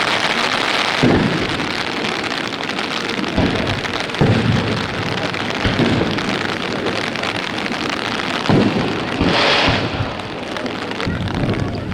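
Heavy rain and wind making a steady dense hiss, with about five firework shells bursting as low booms through it.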